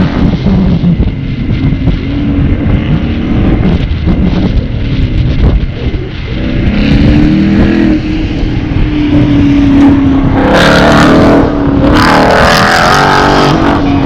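2001 Ford Mustang GT's 4.6-litre V8 running while the car sits waiting at the start, over a low rumble of wind on the microphone. About halfway in the engine settles onto a steady held note, and a louder, rougher rush of noise comes in over the last few seconds.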